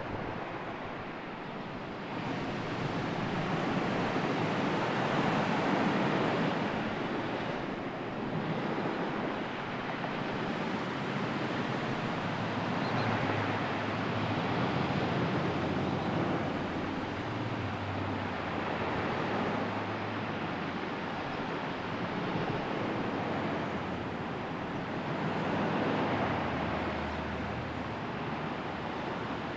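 Sea surf washing in and drawing back, a steady rushing noise that swells and eases every several seconds. A faint low hum runs under it from about twelve seconds in and again near the end.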